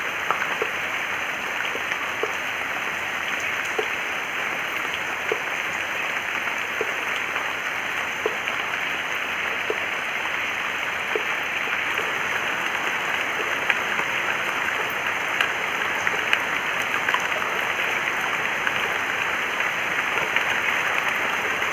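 Steady rushing of water, an even hiss with small faint ticks through it.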